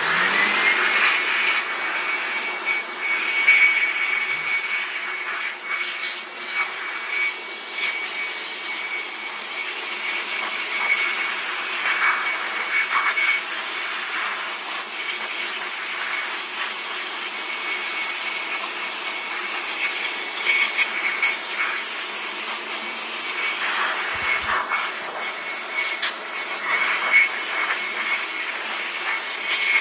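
Electric blower starting up, its motor whine rising in the first second to a steady high pitch, then running continuously as it blasts dust out of a computer power supply. The rush of air swells and dips throughout.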